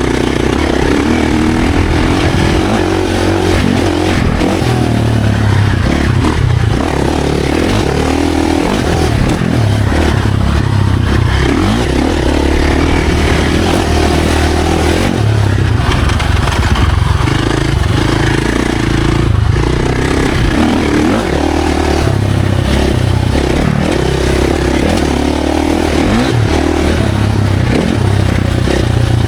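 Dirt bike engine running hard, revving up and dropping back again and again as the throttle is worked along the trail.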